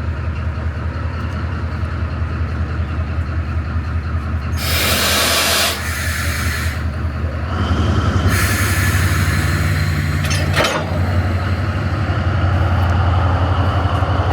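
Metre-gauge locomotive standing with a steady low engine hum, letting off two loud hisses of air or steam about five and seven seconds in. The engine note grows louder from about eight seconds in.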